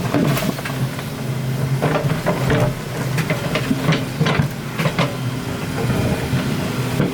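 Excavator engine running steadily under load, with irregular knocks and scrapes of the machine working earth and rock.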